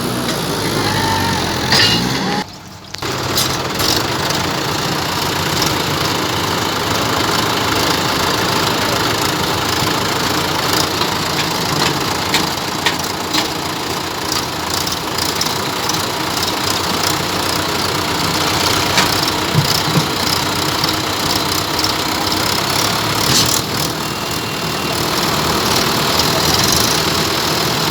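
Farm tractor diesel engine running steadily, with a dense rushing noise over it, and a brief drop-out about two and a half seconds in.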